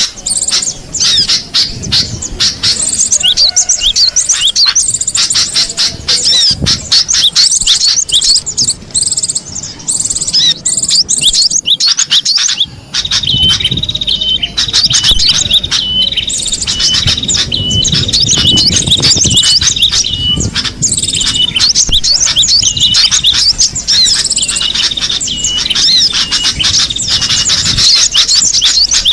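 Cinereous tits (gelatik batu) calling: a dense, fast run of high chirps and call notes, broken by a short pause about twelve seconds in.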